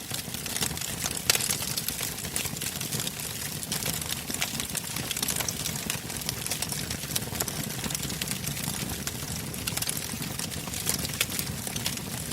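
Wood bonfire burning: a steady low rush of flames with dense, irregular crackles and pops, one sharper pop about a second in.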